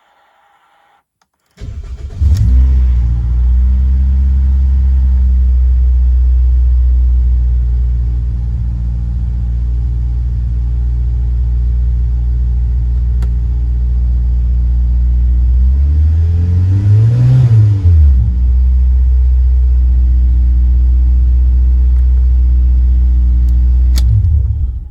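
Toyota Celica GT-S's 2ZZ-GE four-cylinder engine cranking briefly and catching, then idling steadily. About sixteen seconds in it is revved once, the pitch rising and falling, before it settles back to idle and is switched off near the end.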